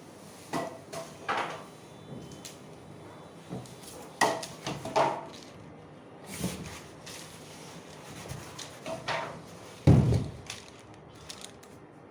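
Scattered knocks, scrapes and rustles of packaging and washing-machine parts being handled during unboxing, with a heavier low thump about ten seconds in.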